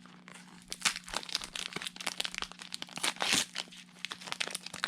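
A foil Pokémon booster pack being crinkled and torn open: a run of crackles with a louder rip about three seconds in, over a steady low hum.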